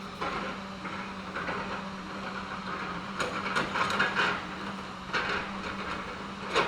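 Diesel engine of a logging machine running steadily at a distance, with irregular knocks and cracks of wood as timber is moved, busiest about three to four seconds in, and a sharp knock near the end.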